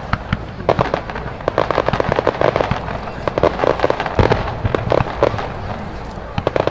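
Aerial fireworks crackling: many rapid, overlapping pops from bursting shells, over a steady low rumble.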